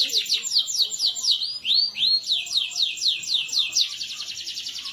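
Canary singing: a fast series of downward-sweeping high notes, two slower arched notes about two seconds in, then a quicker rolling trill near the end.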